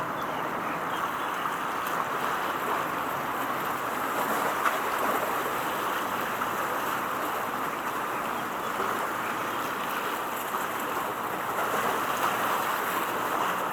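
Steady rushing noise of wind and water washing, with no distinct engine note.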